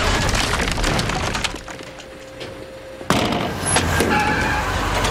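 Aftermath of an explosion: glass and debris breaking and falling, dying down about a second and a half in. About three seconds in a loud noisy sound starts suddenly, with a few sharp clicks.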